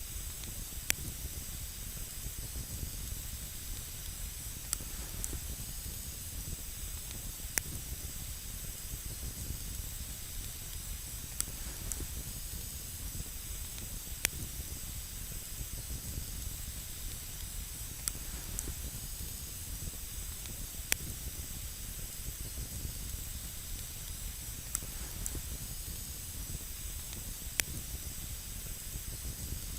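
Wood campfire burning with a steady hiss and scattered sharp crackles and pops.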